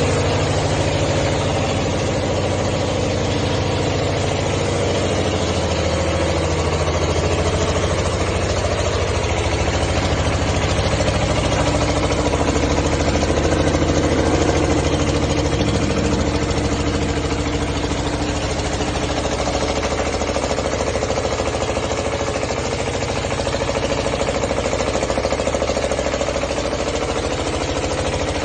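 Diesel engine of a power-line winch (conductor puller) running steadily at a constant speed.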